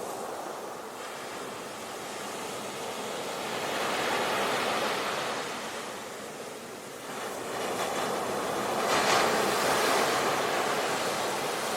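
Ocean waves breaking on a beach: a steady wash of surf that swells and eases, with a bigger wave crashing about nine seconds in.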